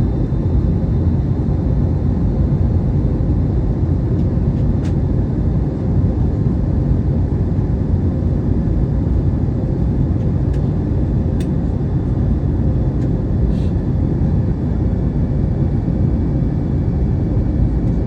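Steady low cabin noise of a passenger airliner in flight, the engines and airflow heard from inside the cabin.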